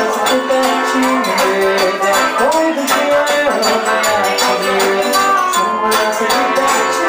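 Live forró band playing: accordion, guitar and zabumba drum with shaker-like hand percussion, keeping a steady dance rhythm.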